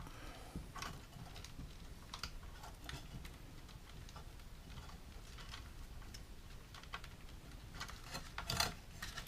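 Scattered light clicks and taps of small parts being handled and fitted into place, with a louder cluster of clicks near the end.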